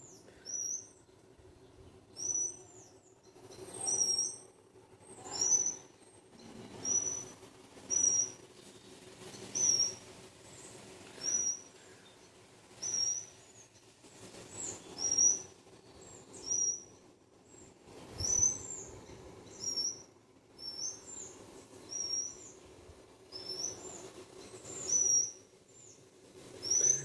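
A short, high chirp repeated at an even pace, about every second and a half, over a faint steady hum.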